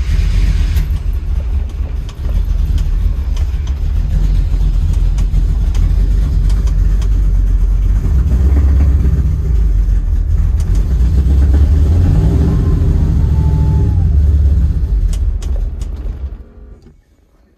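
Small-block Chevy V8 on Sniper throttle-body fuel injection cold-starting after sitting about two weeks: it catches and runs at a fast idle, then the revs sag and it stalls about sixteen seconds in.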